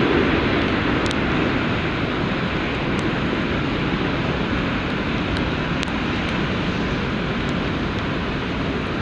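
Jet airliner engine noise, a steady rush that slowly fades as the aircraft moves away.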